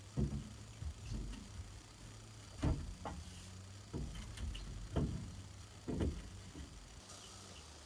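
A series of dull thuds, roughly one a second and unevenly spaced, over a low steady hum.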